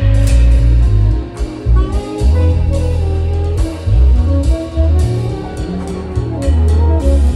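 A jazz trio playing live: a deep, busy bass line under a melodic line of held and moving notes, with drum kit and cymbal strikes throughout.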